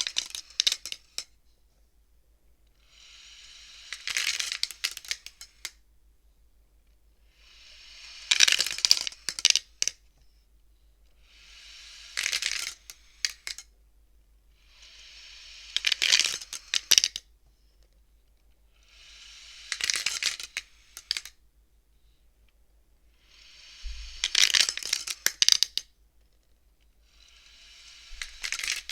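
Wooden beads of a bead abacus (counting frame) being slid along their rods, again and again about every four seconds. Each stroke is a rattling slide that builds up and ends in a clatter of clicks as the beads knock together and against the frame.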